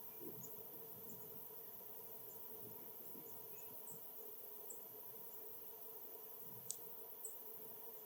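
Faint outdoor ambience at a backyard bird feeder: scattered short, high bird chirps over a light low wind rumble and a faint steady hum, with a sharp click about two-thirds of the way through.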